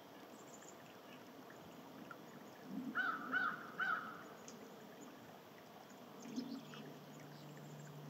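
A bird calling three short, harsh notes in quick succession about three seconds in, with faint chirps of small birds in the background. A low steady hum comes in near the end.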